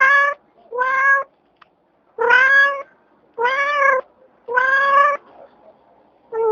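A cat meowing over and over: about five loud meows, each about half a second long, rising and then falling slightly in pitch, with short pauses between them.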